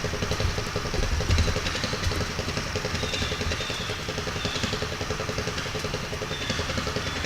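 A mini bike trike's 420 cc single-cylinder engine idling steadily.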